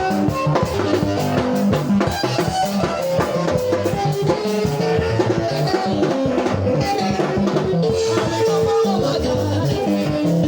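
Praise band music: a drum kit keeps a steady beat under held instrumental notes, with no singing.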